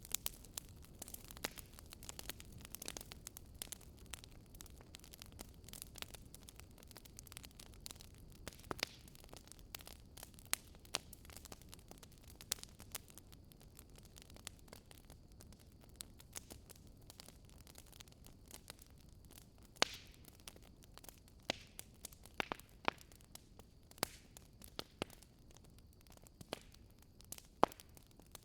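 Wood fire crackling in a fireplace: irregular sharp pops and snaps over a faint, steady low hiss, with a few louder pops about two-thirds of the way through and near the end.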